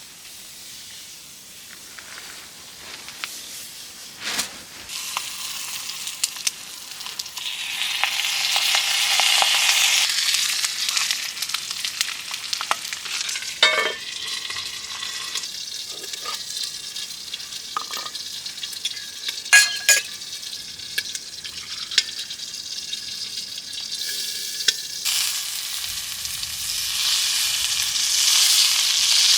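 Food sizzling as it fries in a pan over a campfire, swelling louder about a third of the way in and again near the end. Several sharp clicks or clinks, as of a utensil stirring against the pan, stand out above it.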